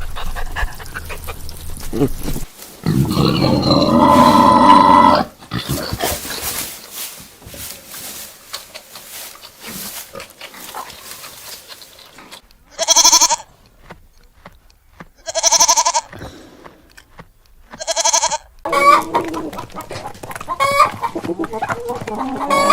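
Goats bleating: one long bleat near the start, then three loud short bleats a couple of seconds apart, followed by a run of smaller calls near the end.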